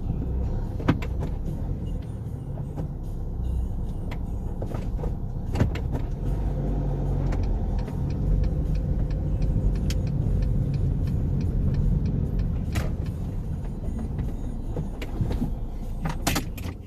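A car on the move: steady low engine and road rumble, with a run of light, regular clicks from about six to eleven seconds in.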